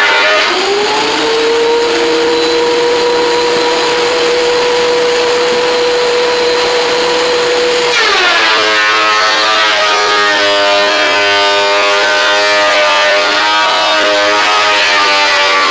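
WEN 13-inch benchtop thickness planer running. It rises to a steady high whine with no board in it within the first second, then a board is fed in about halfway through: the pitch drops suddenly as the cutterhead takes the load, and a rougher cutting noise joins the whine.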